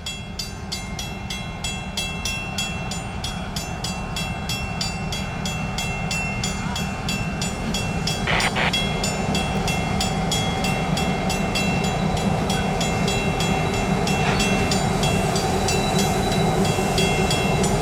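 CN freight train's diesel locomotives approaching, their engines running with a steady hum that grows steadily louder, and a fast, even ticking over it.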